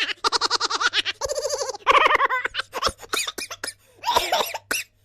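Laughing sound effects played one after another: several different voices laughing in rapid pulsing 'ha-ha' runs, turning into shorter, choppier bursts in the second half.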